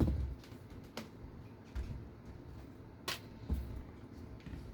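Small RC car parts being handled on a workbench: a few scattered light clicks and taps, the sharpest about three seconds in.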